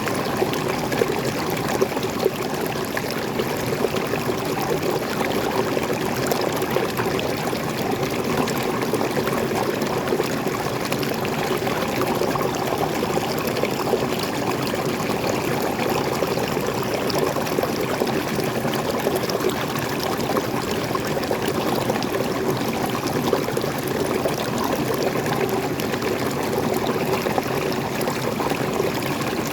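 Waterfall and stream water pouring and splashing steadily.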